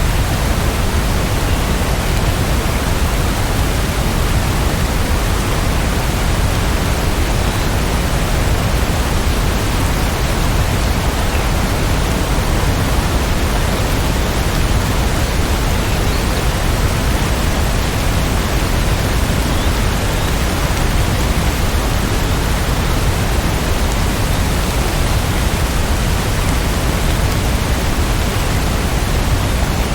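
Steady heavy rain: an even, unbroken rushing hiss with no single drops or thunder standing out.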